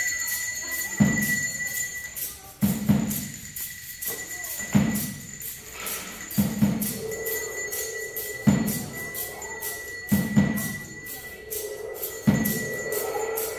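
Percussion ensemble playing a rhythmic piece: a low drum stroke about every two seconds over quick, sharp clicking strokes, with a steady high ringing tone that drops out and returns.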